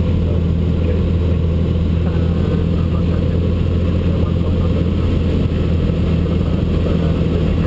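Cessna 182 light aircraft's piston engine running, a steady low drone with no change in pitch or level.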